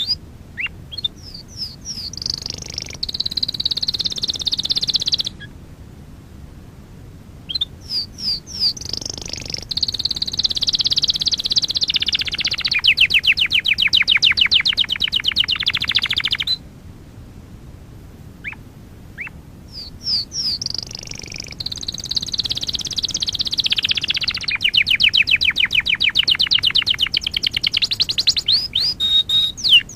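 Domestic canary singing: three long song phrases with short pauses between them. Each opens with a few separate chirps and runs into fast, high trills of rapidly repeated notes.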